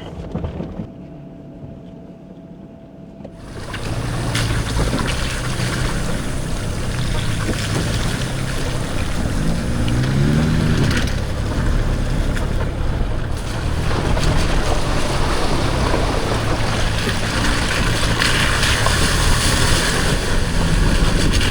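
Off-road vehicle driving through a shallow creek crossing: the engine runs with a brief rev about ten seconds in, over a steady rushing noise of water and wind. It starts quieter and gets much louder about three and a half seconds in.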